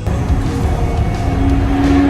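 A car engine running loud, with a steady engine tone rising in level over the second half, over background music.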